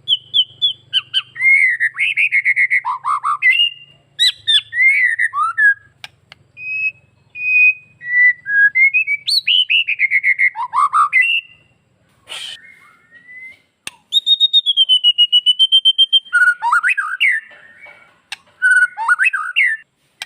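White-rumped shama singing a varied, loud song of clear whistles, gliding notes and quick trills. About two-thirds of the way through it gives a long run of fast repeated notes.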